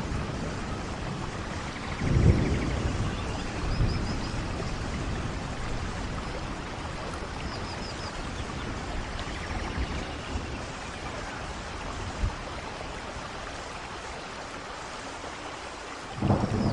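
Steady rainfall, with low thunder rumbles about two seconds in and again around four seconds. A louder rumble starts just before the end.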